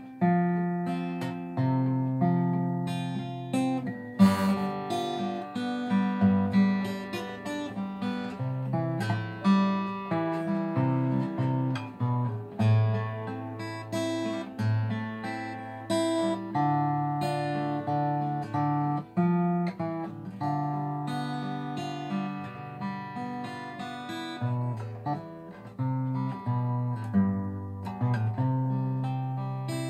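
Solo acoustic guitar playing an instrumental passage: a plucked melody over bass notes, with a loud strummed chord about four seconds in.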